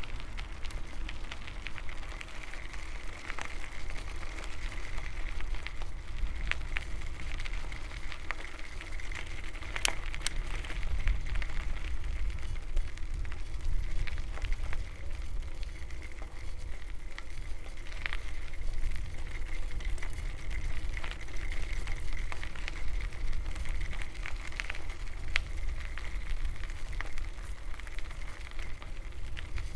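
A bicycle being ridden along a path: a steady low rumble and crackling from the tyres and bike, with scattered sharp clicks and rattles, and a faint steady high tone underneath.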